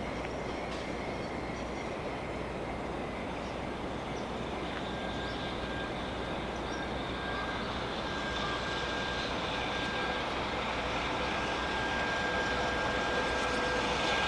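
Low steady rumble of a distant freight train drawing near, slowly growing louder, with a thin steady whine that comes in about five seconds in.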